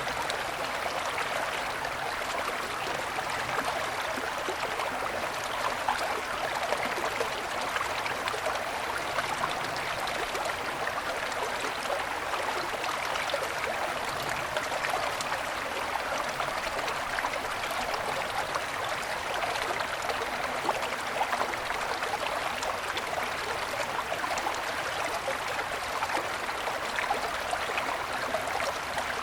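Small mountain stream flowing and splashing over snow-covered stones, a steady rushing babble.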